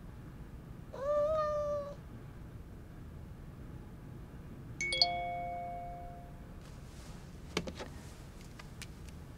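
A cat meows once, about a second long, bending up in pitch and then holding. About five seconds in a single bright electronic chime sounds and fades out over a second or so, followed by a few light clicks.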